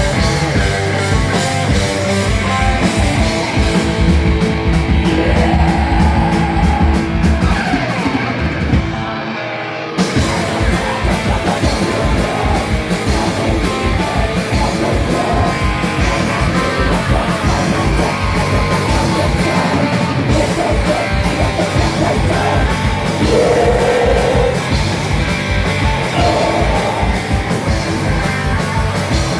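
Loud live heavy rock band with distorted electric guitars and drums. About nine seconds in the band briefly drops back, then the full band crashes in again at once and keeps going.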